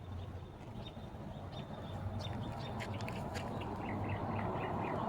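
Small birds chirping in short, scattered calls, with a quick run of chirps at the very end. Underneath, a low traffic rumble grows steadily louder.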